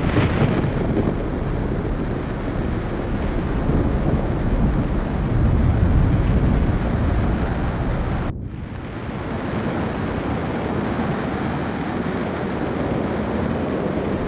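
Storm wind and surf: a steady, heavy rush with no distinct events. It drops off for a moment about eight seconds in, then resumes.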